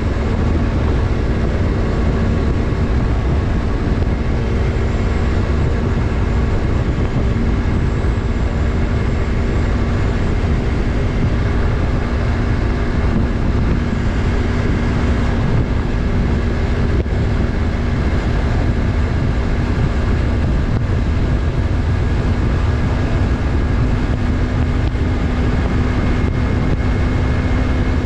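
Yamaha MT-03's 321 cc parallel-twin engine running at steady revs while riding, under heavy wind and road noise. The engine note dips slightly at the start and rises a little near the end.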